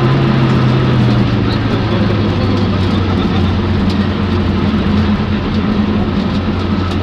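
Peugeot 205 rally car's engine heard from inside the cabin, running hard and steady at speed. Its note dips slightly at the start, then holds.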